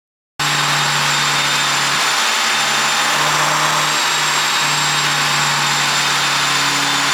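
Mercedes-Benz SLC200's turbocharged four-cylinder engine running steadily at idle, cutting in abruptly about half a second in, with a strong hiss over a steady low hum.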